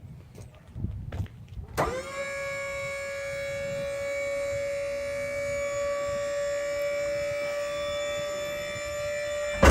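12-volt electric hydraulic pump motor on a scissor-hoist dump bed, running in power-down to lower the bed. It clicks on about two seconds in, gives a steady whine, and stops with a click at the end.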